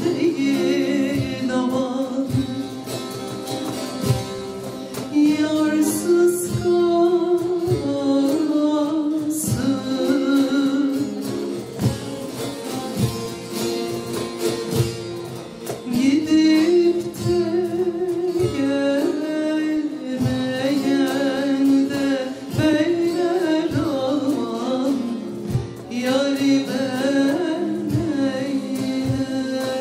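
Turkish folk music played live: a türkü sung over plucked saz (long-necked lute) accompaniment, with a steady rhythm.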